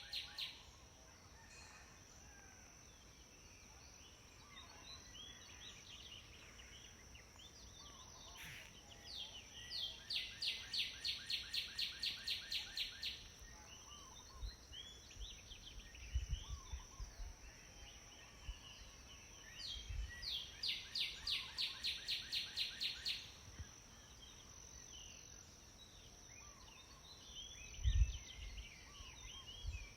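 House sparrows chirping: two runs of quick, evenly repeated chirps, about four a second and each some three seconds long, with scattered single chirps between them. A steady high-pitched whine runs underneath, and there is a dull thump near the end.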